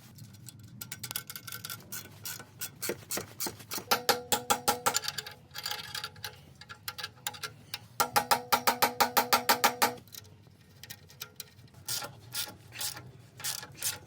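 Hand-tool work on a rusty car exhaust: quick runs of sharp metallic strokes, about eight to ten a second, with a ringing tone under them. The strongest runs come about four seconds in and again from about eight to ten seconds.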